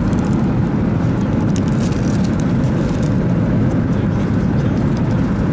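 Steady cabin roar of a Boeing 737-900ER in cruise: the even rush of air and its CFM56-7B engines, heaviest in the low end, with a few faint clicks over it.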